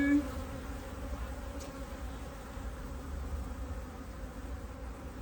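Honeybees buzzing around an open top bar hive: a steady hum of many bees.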